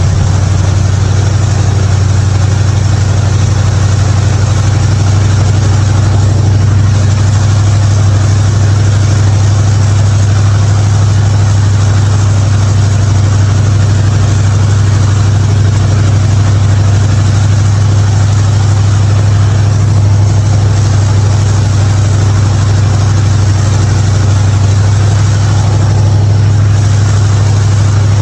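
Hot rod's carbureted engine idling steadily and evenly, with no popping, just after a carburetor adjustment.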